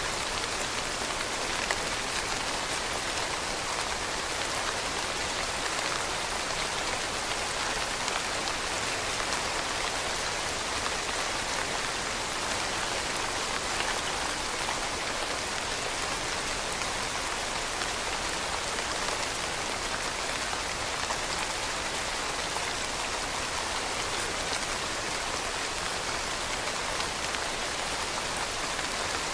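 Steady rain falling on leaves: an even hiss of many small drops pattering, without let-up.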